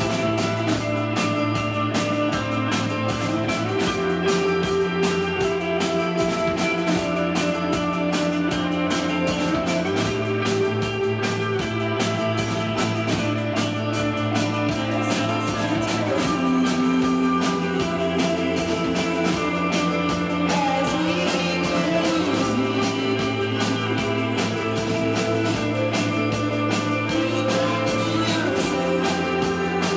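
Live rock band playing: electric guitars and bass over a drum kit, with a bass line that changes note every few seconds and some singing.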